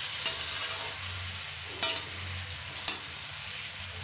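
Pointed gourd and potato curry sizzling in oil in a steel kadhai while being stirred with a metal spatula, a steady sizzle with three sharp clinks of the spatula striking the pan.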